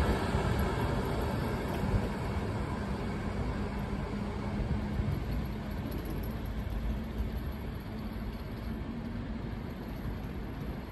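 Passenger train rolling away along the track, its steady wheel-on-rail rumble gradually fading as it recedes.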